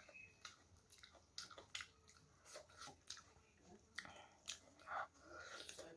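Quiet chewing and wet mouth clicks of a person eating chicken curry and rice by hand, with a few sharper smacks about four to five seconds in.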